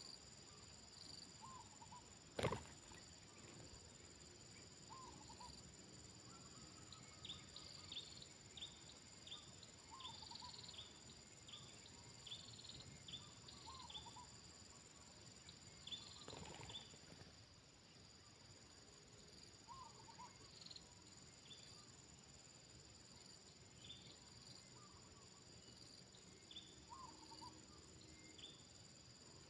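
Outdoor insect chorus: a steady high buzzing from crickets or similar insects, with short high chirps repeating and a brief lower call every few seconds. One sharp click sounds about two and a half seconds in.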